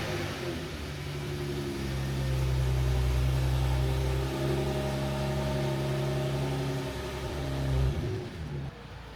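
Car engine running steadily at low revs, with a brief rise in revs near the end before the sound drops away.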